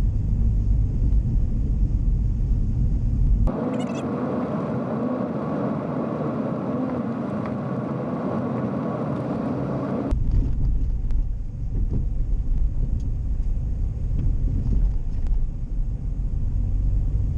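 Car driving, heard from inside the cabin as a steady low road-and-engine rumble. About three and a half seconds in it cuts abruptly to a brighter, thinner noise with little bass, and the rumble cuts back in about ten seconds in.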